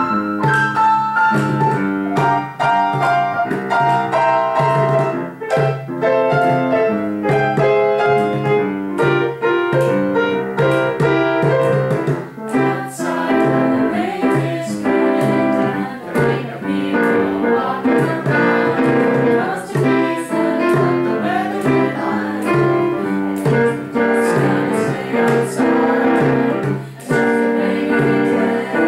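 A snappy little jazz number led by piano, played as one continuous piece.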